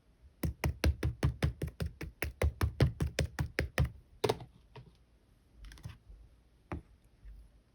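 Clear slime being pressed and poked by hand, giving a quick run of crisp clicks and pops, about five a second, for the first four seconds, then a few single clicks and a soft squish.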